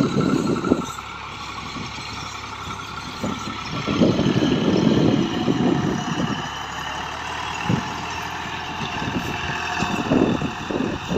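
Massey Ferguson 260 tractor's three-cylinder diesel engine running steadily while pulling a disc harrow. Wind buffets the microphone in gusts, loudest shortly after the start and again around the middle.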